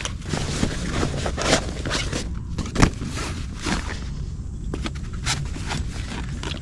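Handling and assembling a carp fishing rod pod: scattered clicks, knocks and scrapes of its parts, the loudest knock about three seconds in.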